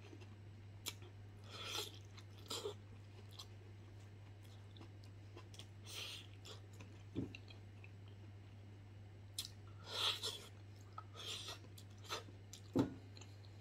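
A person chewing tender stewed beef foot skin with mouth open: scattered, faint wet chewing and smacking sounds a second or more apart, over a steady low hum.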